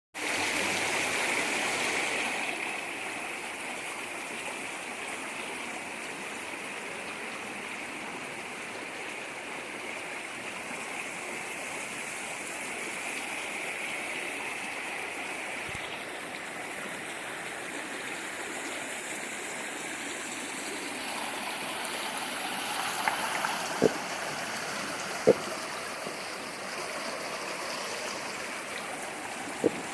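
Waterfall's steady rush of falling and flowing water, a little louder in the first couple of seconds, with three short sharp knocks near the end.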